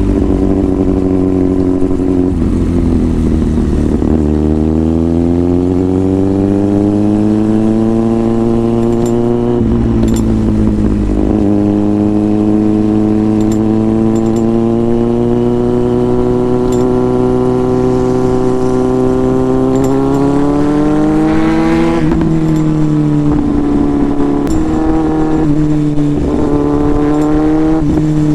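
Inline-four motorcycle engine under way, pulling up through the gears: its pitch climbs, drops sharply at shifts about 4 and 10 seconds in, climbs again and holds steady, then falls away as it eases off about 22 seconds in.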